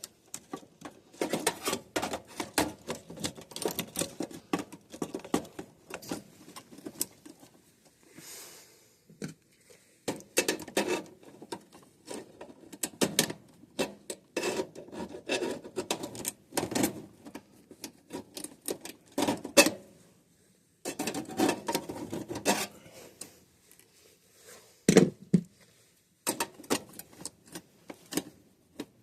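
Plastic and metal clicking, rattling and scraping as a plastic mounting clip and circuit breaker are worked into place inside an air handler's panel. The sounds come in stop-start bursts with short pauses.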